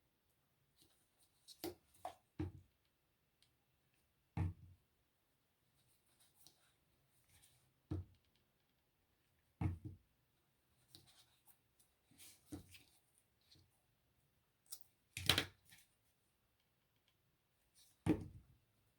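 Scattered light knocks, taps and rustles of hands handling craft pieces and jute twine on a tabletop, with the two loudest knocks late on.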